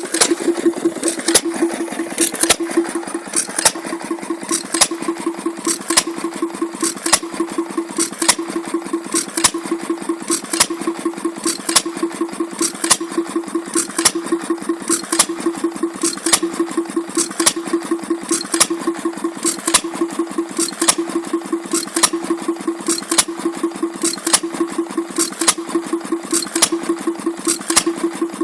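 Taylor vacuum engine, a model flame-licker engine, running steadily: a constant hum with a fast pulsing beat and sharp regular clicks about twice a second.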